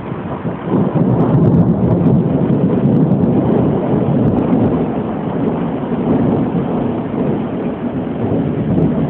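Thunder rumbling during a thunderstorm with rain, swelling suddenly about a second in and rolling on, slowly easing off.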